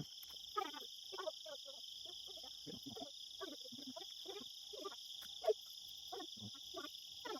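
Steady high insect chorus, like crickets, with a scatter of short, faint, irregular low sounds over it.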